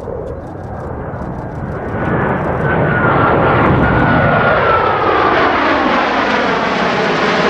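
Blue Angels F/A-18 Super Hornet jet making a low pass. The jet noise swells over the first two seconds and then stays loud, with a high engine whine sliding down in pitch as the aircraft goes by.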